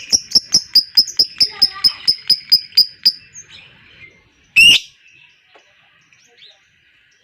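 Lovebird's long 'ngekek' chatter: a fast, even run of sharp, high chirps, about five a second, that stops about three seconds in. A single loud screech follows about a second and a half later.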